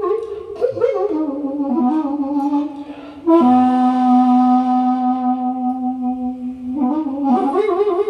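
Daegeum (Korean large transverse bamboo flute) playing a slow improvised melody with wide, wavering vibrato; about three seconds in it swells into one long, steady low note held for about three seconds, then slides back into wavering notes.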